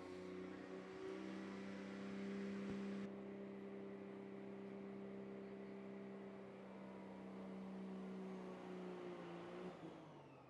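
Super stock diesel pulling truck's engine running at a steady pitch as it pulls down the track, heard from a distance; near the end the pitch drops and the sound fades as the engine clunks out short of the 100-foot mark.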